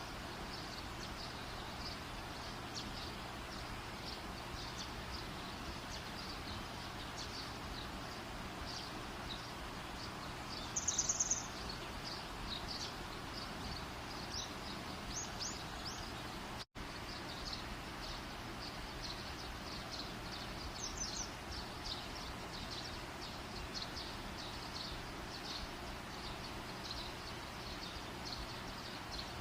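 Campfire burning with a steady hiss and many short high ticks. A bird trills briefly about eleven seconds in, with a few more chirps later, and the sound cuts out for an instant a little past halfway.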